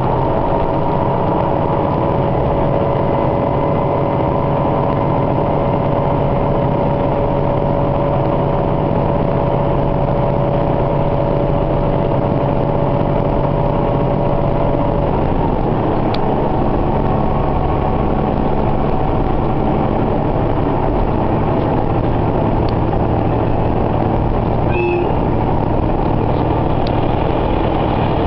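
Diesel railcar running along the line, heard from inside the carriage: a steady engine and running rumble with a thin whine that drops away about halfway through.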